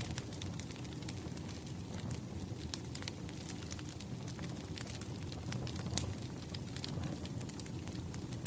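Burning firewood crackling: a steady low sound of the fire with frequent small, irregular sharp pops.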